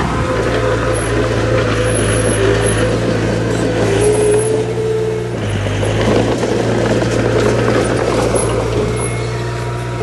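Heavy diesel engine of earthmoving machinery running steadily under a noisy rattle and clatter; the engine note shifts a little about five seconds in.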